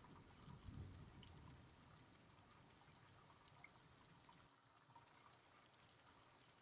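Faint rain: a soft steady hiss of water with scattered small drops ticking, and a low rumble in the first second or so that fades away.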